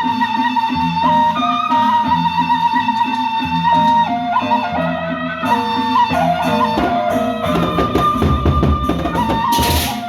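Sasak gendang beleq ensemble playing a gending: a high melody line steps up and down over regular drum and gong strokes, with a cymbal crash near the end.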